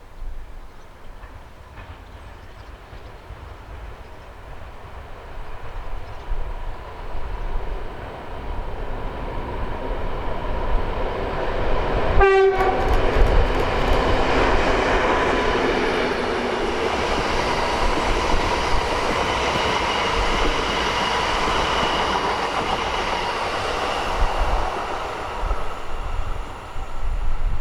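Diesel locomotive approaching and passing, hauling unpowered S-Bahn units: the noise builds, a short horn blast sounds about twelve seconds in, then loud engine rumble and wheels clattering over the rails go by for over ten seconds before fading.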